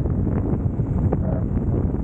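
Wind rushing over the camera microphone on a moving motorcycle, a steady low rumble with the bike's engine and road noise underneath.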